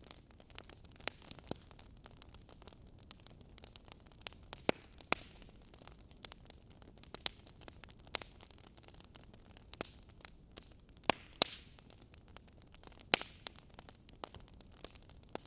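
Wood fire in a fireplace crackling: irregular small pops and snaps over a faint hiss, with a few louder snaps scattered through.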